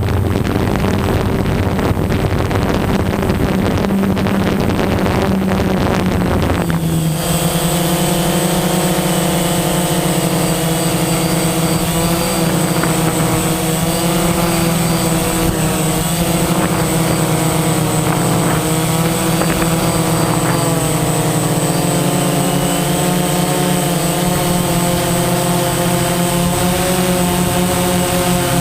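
DJI Phantom quadcopter's motors and 9-inch propellers buzzing in flight, the pitch wavering as the motor speeds shift. About seven seconds in the sound changes abruptly and a clearer set of wavering tones comes in.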